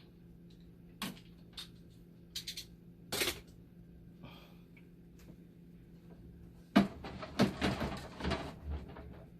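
Clicks and knocks of dialysis machine parts and casing being handled during disassembly: a few single clicks, then a quick cluster of louder knocks and clatter near the end, over a steady low hum.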